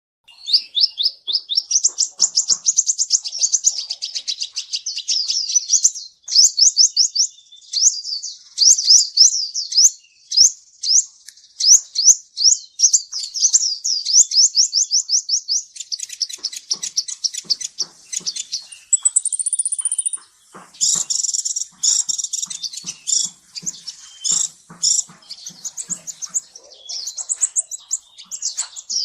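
Kolibri ninja sunbird singing a long, fast, high-pitched song: rapid trills of quick sweeping notes, with a short thin high whistle about two-thirds through, then denser chattering phrases.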